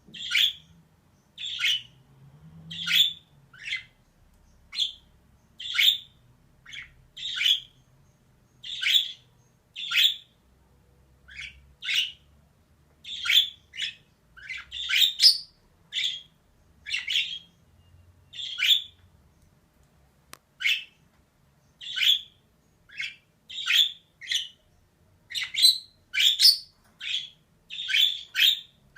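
Female budgerigar calling: short, sharp chirps and squawks repeated about once a second, sometimes in quick pairs.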